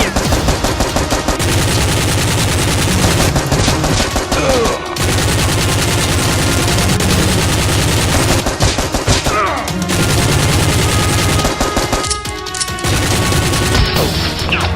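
Rapid, sustained automatic gunfire sound effects in long bursts, with a brief lull about twelve seconds in.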